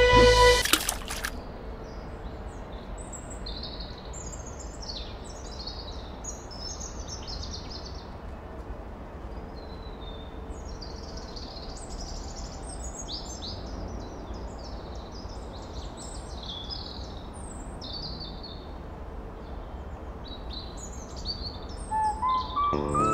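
Birds chirping over a steady outdoor background hiss. Music cuts off about a second in and comes back near the end with rising notes.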